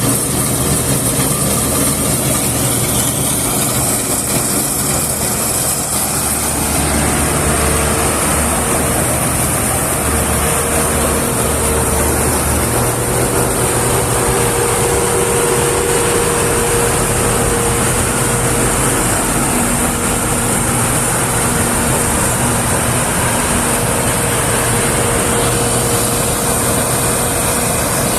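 Heavy farm machinery running steadily under load: an engine with a continuous mechanical din and a high steady whine, changing in character a few times.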